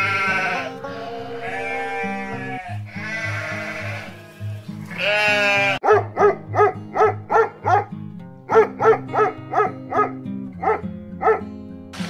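Four long, wavering bleats from livestock, then a quick run of about a dozen short barks at roughly two a second, over steady background music.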